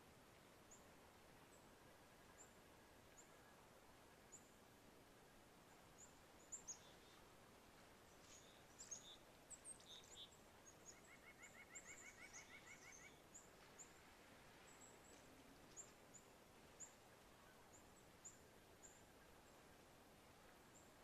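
Near silence with faint songbird calls: thin, high chirps scattered throughout, thickest in the second half, and a short rapid trill about eleven seconds in.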